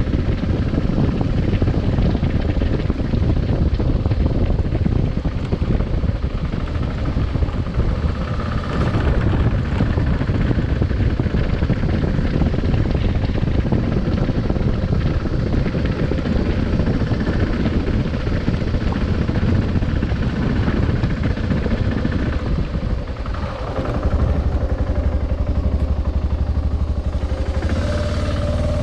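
Adventure motorcycle being ridden, its engine running under a steady, dense low rumble. About three-quarters of the way through the sound dips briefly, then a steadier low engine hum takes over.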